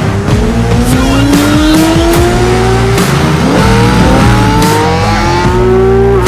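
Motorcycle engine accelerating hard, its pitch climbing steadily, dropping at a gear change about midway and climbing again.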